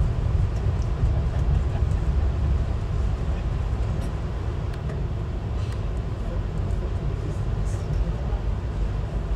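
Passenger train running along the track, a steady low rumble with faint scattered ticks.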